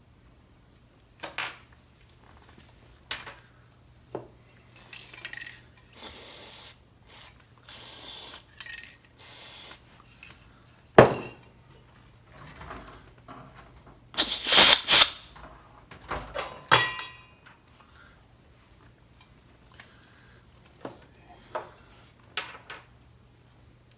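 Small metal parts and tools clinking and knocking on a workbench while chainsaw bar studs are worked on, with short hissing sprays of aerosol brake cleaner. The loudest clatter and hiss comes about two-thirds of the way through.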